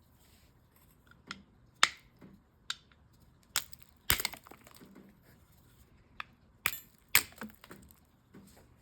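Hard stone slabs being handled: about ten sharp knocks and clicks as they are set down and tapped against each other and a hard surface, a couple of them louder with a brief ring.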